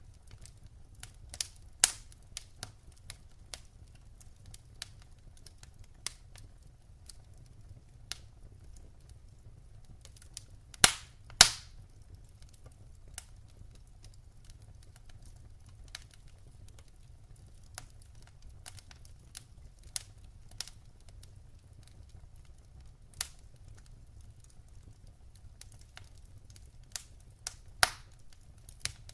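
Wood fire burning in a fireplace, crackling with irregular sharp snaps and pops over a faint low rumble; a few pops stand out loud, about two seconds in, a close pair near the middle, and one near the end.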